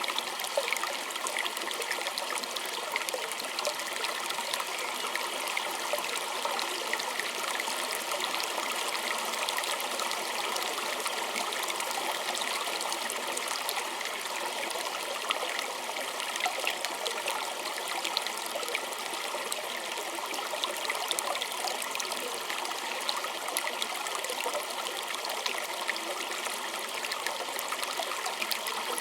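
Small stream trickling and babbling over stones, a steady flow of water with many tiny splashes and droplets.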